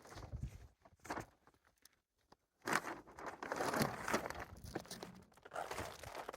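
Irregular crinkling, rustling and footstep-like handling noises, broken by a short dead-silent gap about two seconds in.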